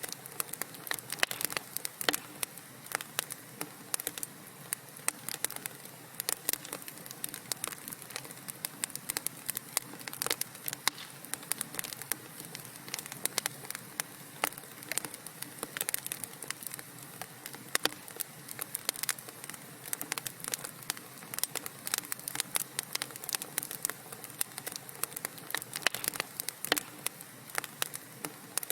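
Wood fire in a fireplace crackling: a steady soft hiss with frequent irregular sharp pops and snaps.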